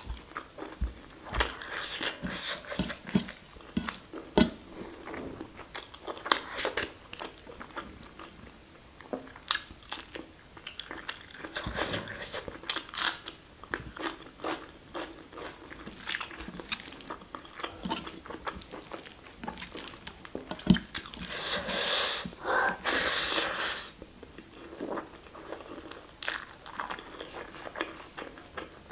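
Close-miked eating sounds: chewing and wet mouth clicks and smacks of someone eating basmati rice and mutton curry by hand, irregular throughout, with a louder, busier stretch about two-thirds of the way through.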